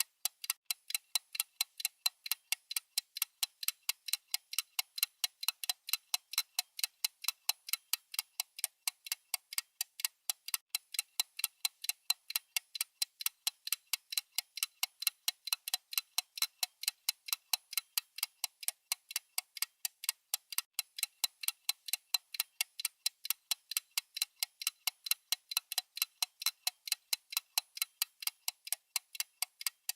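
Countdown timer's clock-tick sound effect: a fast, even ticking of short, sharp, high clicks, several a second, that never changes.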